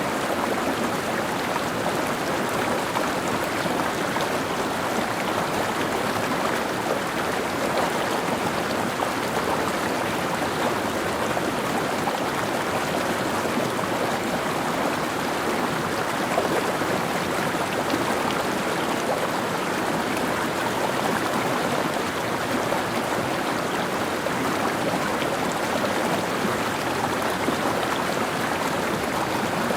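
Mountain stream, water running and splashing over rocks in a steady, even rush.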